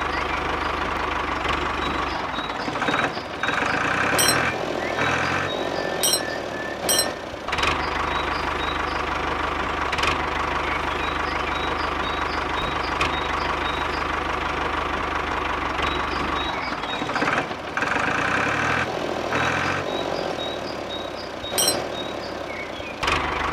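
A small tractor engine runs steadily, with a couple of brief changes in pitch and a few sharp clicks. A faint run of short, high beeps plays over it.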